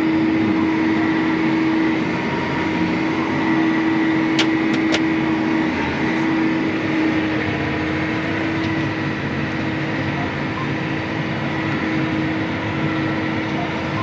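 Large tractor's diesel engine running steadily under load while driving, a constant hum with a faint high whine. Two or three short clicks sound about four and a half seconds in.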